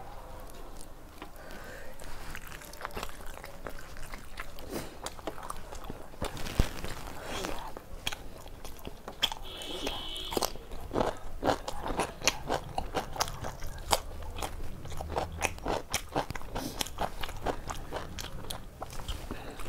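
Close-up eating sounds: chewing with crisp crunching bites, sparse at first and coming thick and fast in the second half as raw cucumber slices are bitten and chewed.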